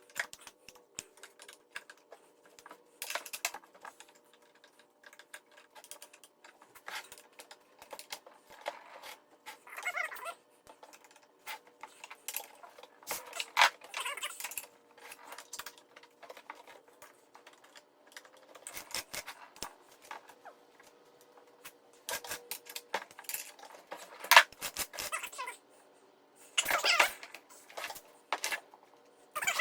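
Irregular clicks, taps and light metallic clatter of chainsaw parts being handled and fitted together, as the bar and chain go back on.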